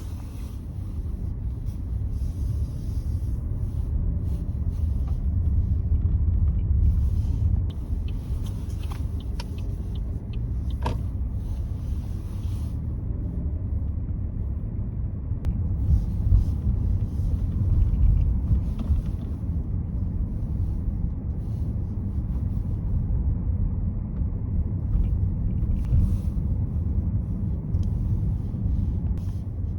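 Chevrolet Trailblazer driving: a steady low rumble of road and engine noise, with a lighter hiss that comes and goes above it.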